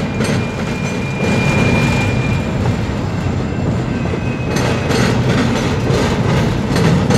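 Autorack freight cars rolling past on steel rails: a steady rumble with wheels clacking over rail joints, a cluster of clacks about five seconds in, and a faint thin high whine during the first few seconds.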